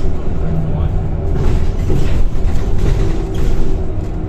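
Scania K230 single-deck bus heard from on board: the engine and ZF automatic gearbox running with a steady low rumble, under faint steady whining tones. There is a noisier stretch with rattle in the middle.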